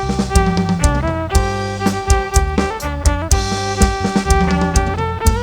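Instrumental passage of a live kantrum band played loud through a PA system: a melody line of held notes stepping up and down over a steady drum beat and heavy bass.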